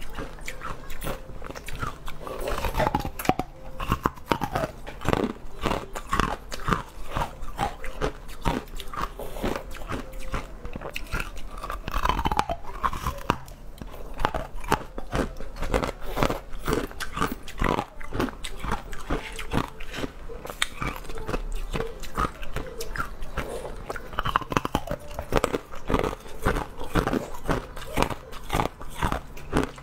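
Close-miked crunching and chewing of a hard, frozen coloured treat, a dense run of irregular crackling bites.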